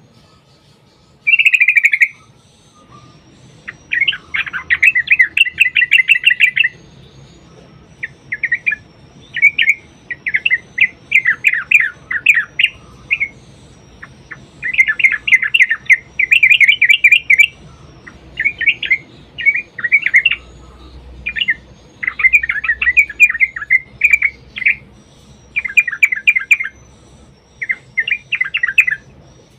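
Yellow-vented bulbul (trucukan) singing: repeated bursts of rapid, bubbling chattering notes, each a second or two long, with short pauses between them.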